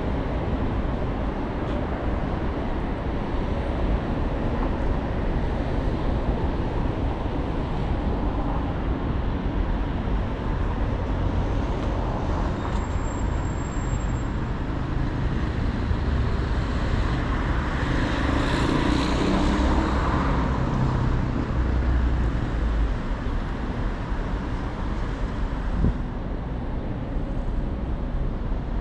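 Steady road traffic noise, with a louder swell about two-thirds of the way through as a vehicle goes by, and a single short knock near the end.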